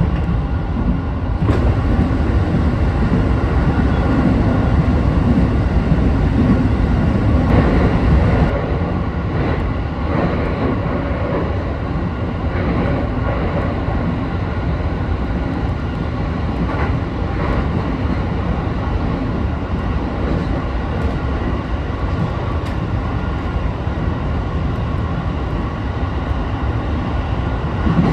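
Sotetsu 12000 series electric train running along the line, heard from inside the front car: a steady rumble of wheels and running gear. It drops slightly about eight seconds in.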